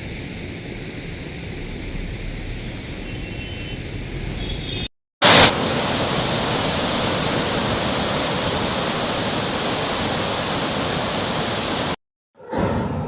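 Steady rush of floodwater, growing louder after a brief cut about five seconds in that opens with a sharp click; it breaks off again near the end.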